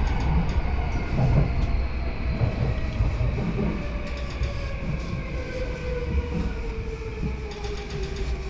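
Yamanote Line commuter train heard from inside the car: wheels rumbling and knocking on the rails under a motor whine that falls steadily in pitch as the train slows toward a station stop.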